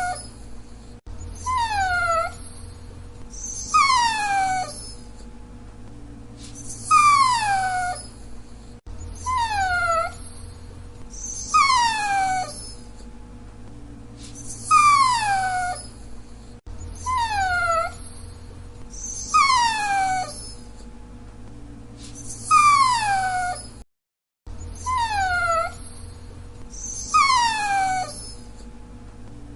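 Dachshund whining: high, thin whines that slide down in pitch, coming in short bouts about every two to three seconds over a steady low hum.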